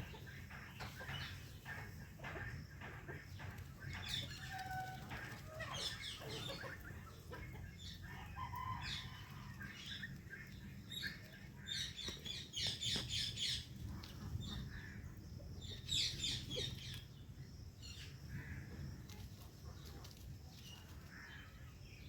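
Indian ringneck and Alexandrine parrots chattering with short, harsh calls and a few brief whistles, with two louder rapid runs of calls a little past halfway and about three-quarters through.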